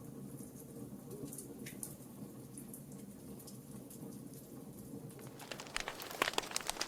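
Wood fire burning in a fireplace: a steady low sound of the flames with a few scattered crackles, then a busy run of sharp crackles and pops from the burning logs starting about five seconds in.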